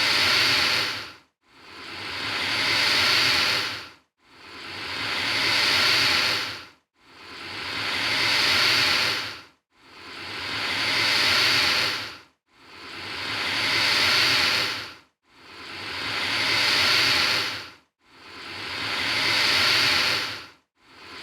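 Alligator hissing: a breathy hiss that swells and then cuts off abruptly, repeated identically about every three seconds, some eight times.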